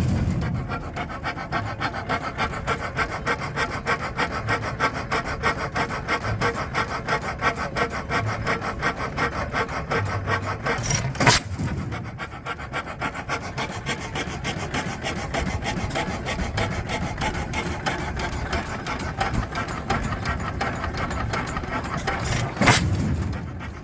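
An 8 HP Pattin Brothers stationary gas engine running, with a steady rapid rhythmic clatter. Two sharp clicks stand out, one about halfway through and one near the end.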